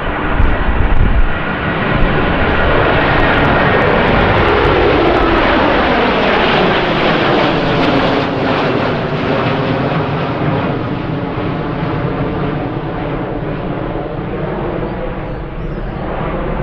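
Jet airliner passing close by. Its engine noise swells to a peak in the first half, then falls steadily in pitch as it goes past and fades slowly. Wind buffets the microphone in the first second or two.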